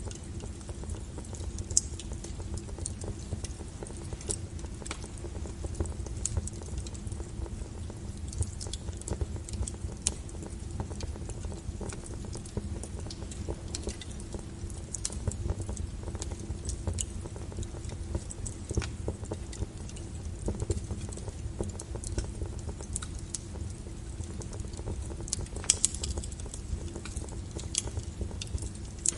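Log fire burning in a fireplace: a steady low rumble of flame with irregular crackles and pops from the burning wood, one louder pop near the end.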